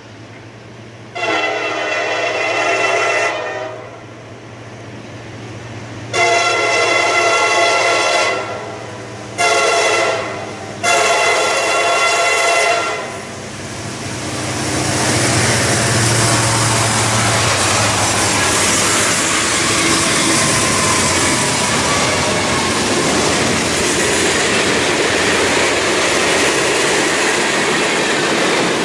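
CSX freight train's locomotive horn sounding the grade-crossing signal as it approaches: two long blasts, a short one and a long one. Then the locomotives pass and the freight cars roll by with a steady, loud noise of steel wheels on rail.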